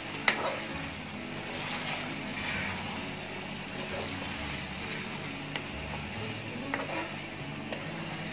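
Beef and spice powders frying in oil in an aluminium karahi, a steady sizzle, while a metal spatula stirs them, scraping and knocking against the pan. The sharpest knock comes just after the start, with a few lighter clinks later.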